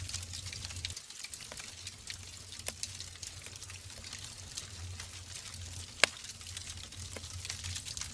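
Wood fire burning in a fireplace: a steady hiss with irregular small crackles and pops from the burning logs, and one sharp, louder snap about six seconds in.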